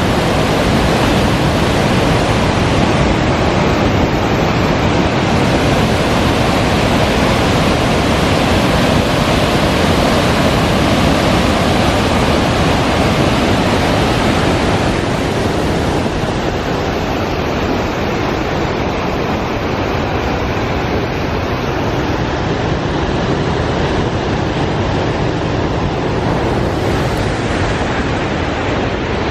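Sandan Falls, a three-tier river waterfall, pouring with a loud, steady roar of rushing water that drops slightly in level about halfway through.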